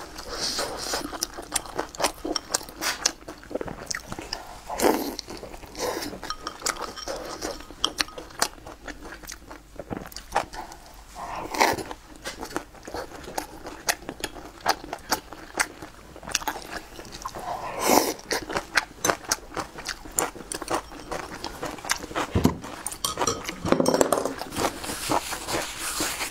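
Close-miked eating: wet chewing and crunching with many small mouth clicks, broken by a few louder bites, about four of them spread through.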